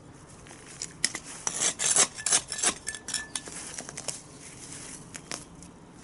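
A quick run of scraping and clicking strokes from a metal hand tool working the soil while weeding. It starts about a second in and dies away after about three seconds.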